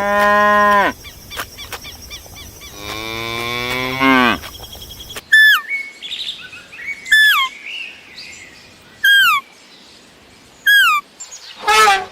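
Cow mooing twice, a short moo and then a longer one that drops in pitch at its end. Then a bird gives a short call that slides sharply downward, four times about two seconds apart.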